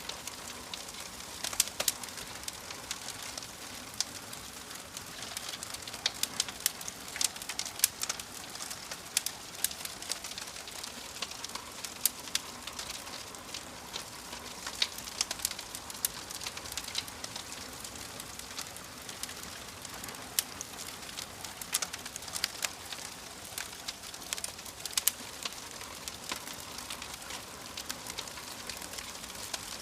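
Wood fire crackling in a fireplace: a steady hiss broken by frequent sharp, irregular pops and snaps.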